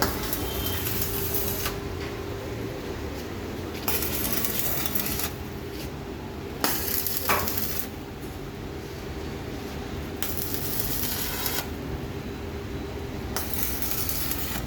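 Metal clinking and knocking from work on an e-rickshaw's metal body frame, with stretches of hissing noise that start and stop every second or two over a steady low hum. A couple of sharp knocks come about seven seconds in.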